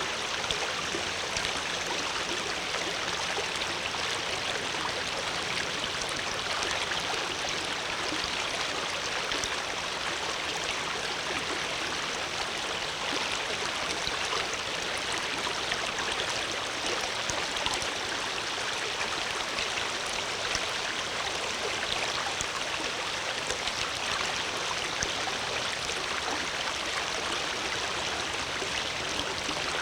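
Water flowing steadily in a stream, a continuous rushing and babbling with no breaks.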